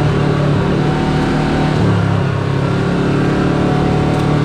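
Side-by-side UTV engine running steadily under way, its note stepping up slightly about two seconds in.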